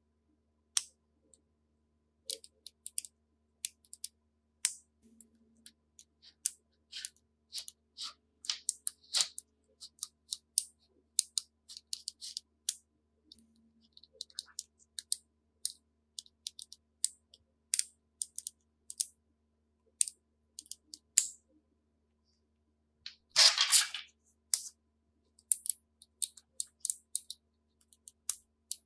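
Colored magnetic building pieces clicking and snapping together as they are handled, in an irregular run of sharp clicks, with a longer rattle of pieces about two-thirds of the way through.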